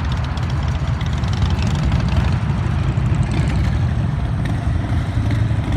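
Motorcycle engines running at low speed, a steady low rumble.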